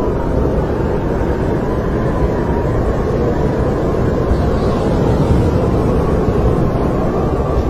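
Snowstorm wind blowing steadily, a deep rushing rumble with a faint whistling howl that slowly rises and falls in pitch.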